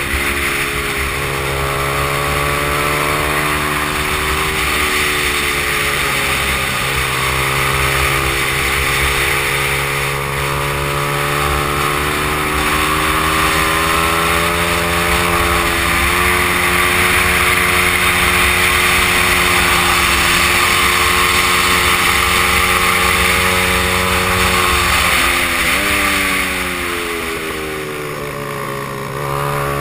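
Stock Honda XR100 single-cylinder four-stroke engine running hard at racing revs. Its pitch climbs steadily and drops sharply several times as gears change. Near the end it falls away and the engine gets quieter, as if for a corner, then climbs again. A steady rushing hiss of wind runs over it.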